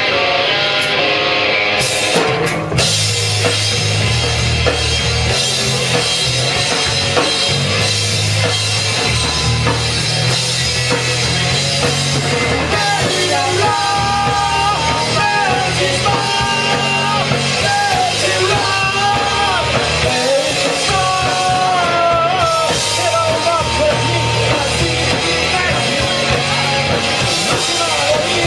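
Live rock band playing: drum kit, electric guitar and bass under a singing, shouting vocal.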